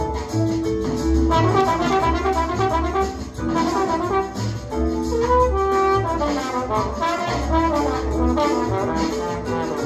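Jazz recording: a horn section plays harmonized lines together over a walking bass, with notes changing every half second or so.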